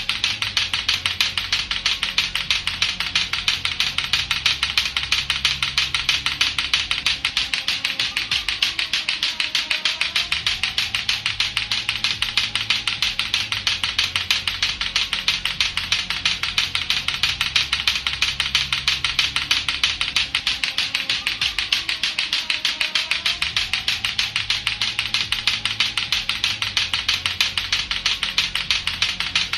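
Lato-lato clacker toy: two hard plastic balls on a string knocking together in a fast, steady rhythm, several clacks a second without a break. A low backing music track plays underneath.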